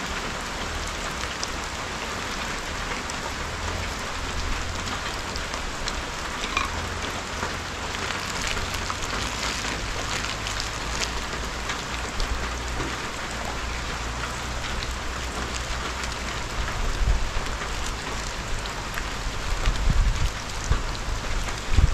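Steady rain falling as a heavy downpour begins to ease. A few low rumbling knocks come in near the end.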